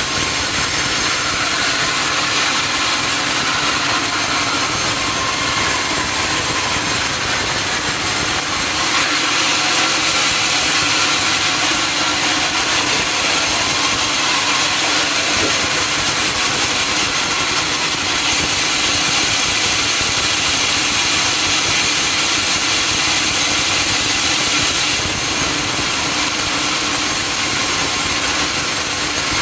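Sawmill saw running and cutting through a teak log, a loud steady whine and hiss of the blade in the wood with the mill's motor running underneath.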